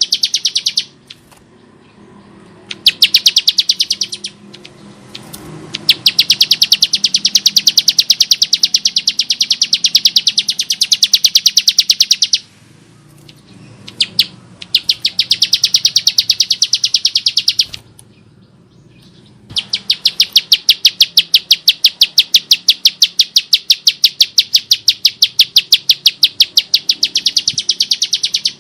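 Bar-winged prinia (ciblek sawah) giving harsh, rapid rattling trills of evenly repeated sharp notes, in long bouts with short pauses between them.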